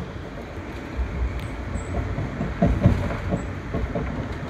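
Amtrak Downeaster passenger train heard from inside a coach at speed: a steady low rumble of the wheels on the rails, with a few heavier knocks about two and a half to three seconds in.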